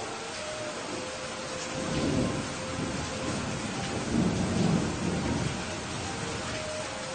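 Steady rain hissing, with rolls of thunder rumbling low underneath. The thunder swells about two seconds in and again, loudest, around four to five seconds.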